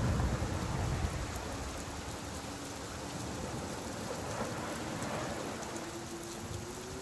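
Steady rain falling, with a low rumble near the start that fades out within the first second or so.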